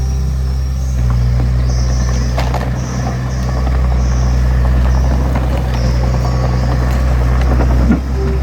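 Diesel engine of a small crawler bulldozer running steadily, with a few short metallic clanks.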